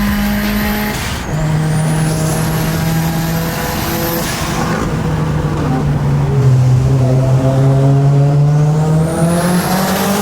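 Mitsubishi Lancer Evolution IV's turbocharged 2.0-litre four-cylinder engine running under way, its pitch dropping in steps around 1 s and 4 s in and climbing again near the end. A high whine rises twice over it.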